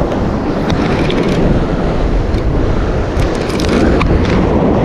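Surf washing over shoreline rocks, a steady loud rush with wind buffeting the microphone.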